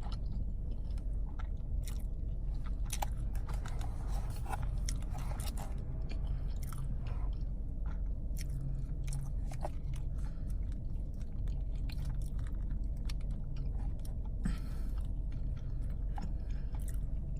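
Close-up chewing and biting of Chick-fil-A chicken minis, breaded chicken in soft buttered rolls: soft wet mouth sounds with scattered small clicks, over a steady low hum.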